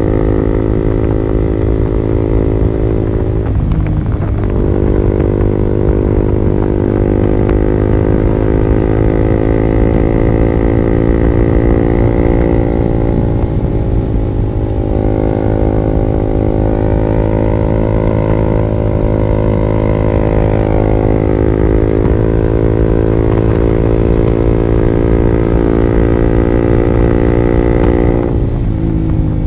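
Honda CB150R single-cylinder engine running through an R9 Alpha Series aftermarket exhaust at steady cruising revs. The note breaks briefly about four seconds in, then falls in pitch near the end as the revs drop.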